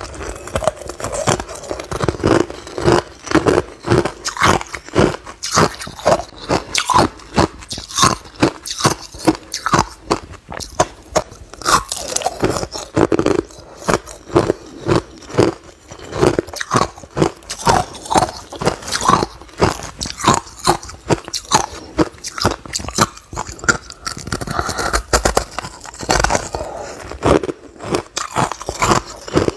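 Close-up biting and chewing of hard refrozen crushed ice: a rapid, irregular run of sharp, loud crunches, several a second.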